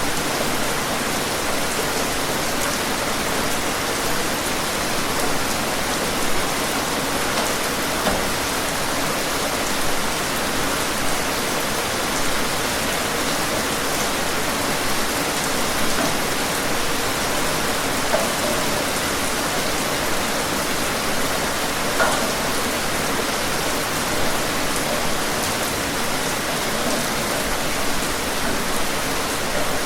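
Steady rain falling: an even hiss, with brief louder spatters of drops every second or two.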